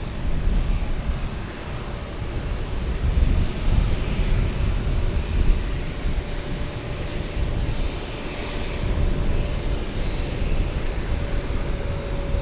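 Boeing 787-9 jet engines running at low thrust: a steady deep rumble with a faint whine held on one note.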